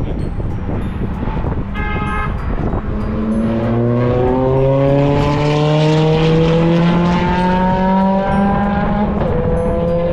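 Sports car engine accelerating hard on a race track, its pitch climbing steadily for several seconds, then dropping briefly with a gear change near the end before climbing again. Wind buffets the microphone.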